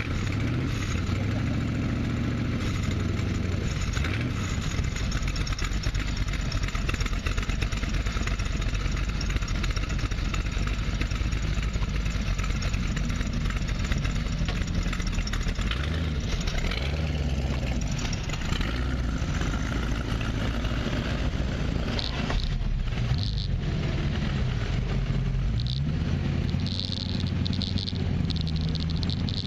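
BossHoss motorcycle's 502 cubic-inch ZZ502 big-block V8 running at idle with a steady low rumble through an exhaust muffled to meet Japanese noise rules. The idle wavers a little.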